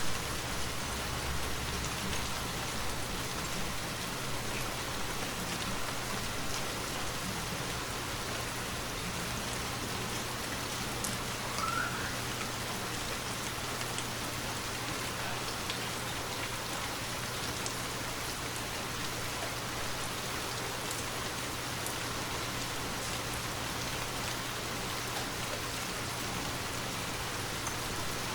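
Steady rainfall falling on forest trees, a continuous even hiss scattered with small drop ticks. A short, sharp loud knock comes right at the start, and a faint, brief rising chirp comes about twelve seconds in.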